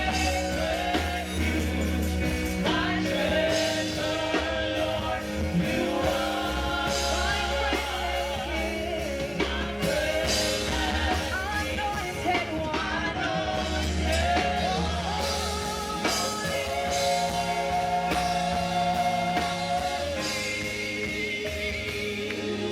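A church praise team singing a worship song, with live band accompaniment and sustained bass notes underneath.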